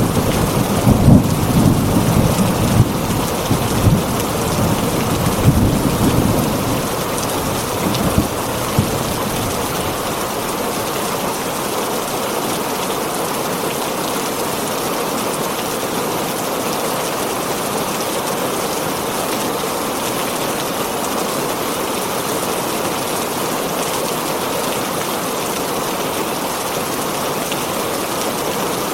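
Heavy rain falling steadily on a tin roof. Thunder rumbles through roughly the first eight seconds, then dies away, leaving an even hiss of rain.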